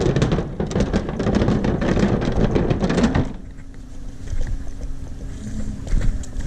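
Wind buffeting the microphone with a crackling rumble for about three seconds, then a sudden drop to a quieter low rumble with a faint steady hum.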